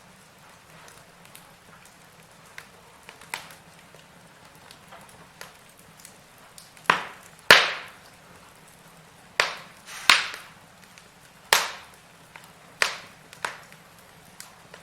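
Firewood logs burning in a fireplace, crackling with sharp, irregular pops over a faint steady hiss; the pops come thicker and louder from about halfway through.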